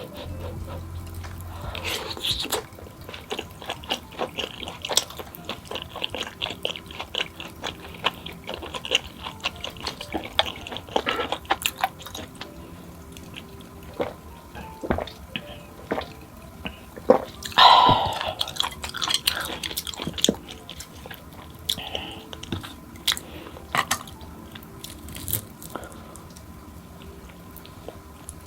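Close-miked eating: chewing and biting, with many short crunchy and wet clicks as fried snacks and spicy rice cakes are eaten. There is one louder rush of noise about two-thirds of the way through.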